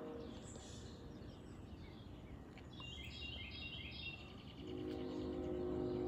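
A bird chirping a quick series of short high notes about three seconds in, over low background noise. A steady low hum of several tones comes in near the end and grows louder.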